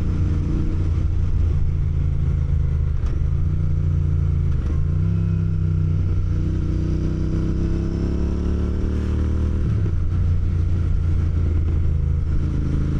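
Motorcycle engine pulling under way. The revs rise through a gear, then drop suddenly about ten seconds in at a gear change, with shorter dips a few seconds in.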